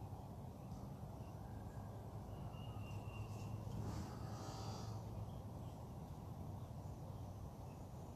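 Faint outdoor morning ambience under a steady low hum, with a few distant bird calls: a short whistled note about two and a half seconds in and a brief harsher call about four seconds in.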